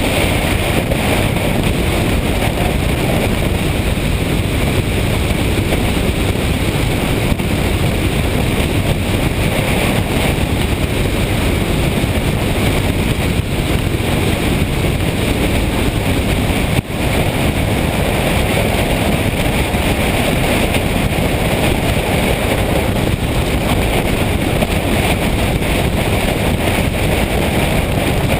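Steady wind rush and road noise from a moving motorcycle, loud and even, with a brief dip about two-thirds of the way through.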